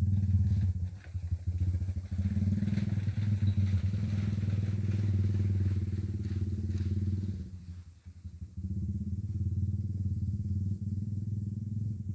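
A small engine running steadily, dropping away for about a second around eight seconds in, then running again.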